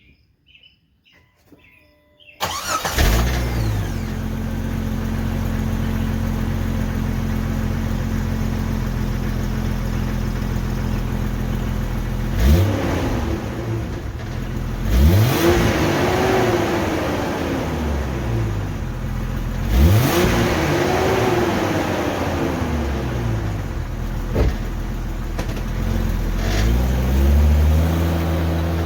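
A 1999 Jeep Cherokee XJ's 4.0-litre inline-six is started about two seconds in and idles steadily through its exhaust, then is revved several times in the second half, each rev rising and falling back to idle.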